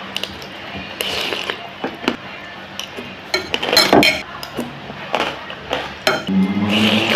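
Cutlery clinking and scraping against a bowl while eating spicy noodles, with short clicks and a cluster of louder eating noises a little past the middle.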